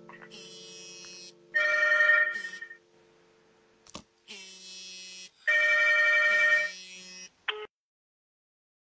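A telephone ringing: two rings of about a second each, four seconds apart, with a sharp click between them.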